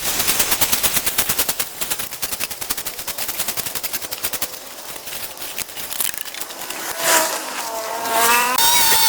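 A small two-stroke engine on a handheld cutting tool drops off the throttle into a rapid, uneven popping idle. About seven seconds in it revs back up with a rising whine.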